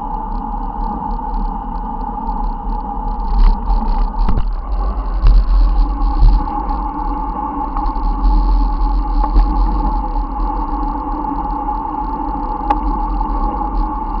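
Wind buffeting the microphone of a camera on a moving bicycle, with steady road and traffic noise beneath it.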